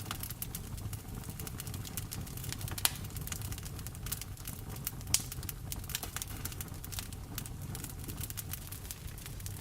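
Wood fire crackling in a fireplace, a dense run of small sharp crackles with two louder pops about three and five seconds in, over a steady low rumble and rain noise.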